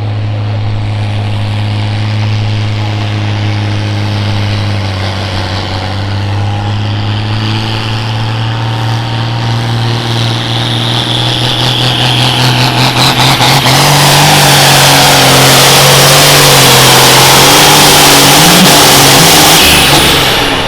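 John Deere 4450 pulling tractor's diesel engine running hard under load during a pull. It holds a steady pitch, grows louder from about halfway with a high whine and hiss over it, and drops off sharply near the end as the throttle comes off.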